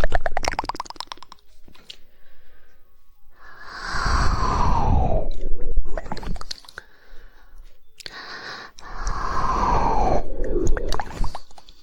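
Close-miked ASMR mouth sounds: a rapid run of 'woodpecker' tongue clicks in the first second, then two long wet mouth sounds that each slide down in pitch, with scattered small clicks between.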